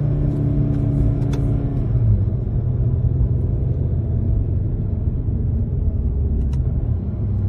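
Car engine and road noise picked up by a dashcam: a steady low rumble, with the engine's note dropping away about two seconds in.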